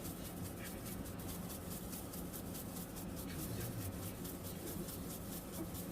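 Salt and pepper being shaken over raw chicken drumsticks: a faint, rapid, even scratching.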